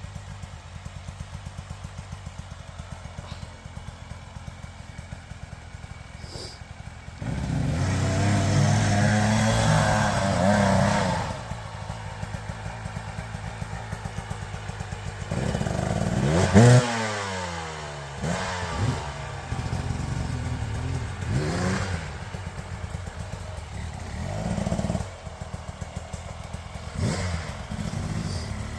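Husqvarna enduro dirt bike engine ticking over, then revved hard for a few seconds about a quarter of the way in, with a sharp blip whose pitch falls away a little past halfway and shorter blips after that.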